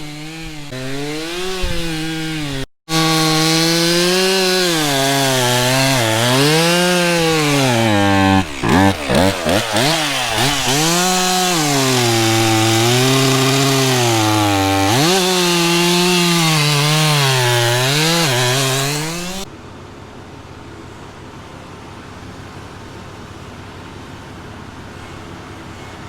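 Chainsaw bucking a felled tree trunk into sections, its engine pitch rising and falling as the chain bogs down and clears in the cut. It cuts off suddenly about three-quarters of the way through, leaving a steady, quieter engine hum.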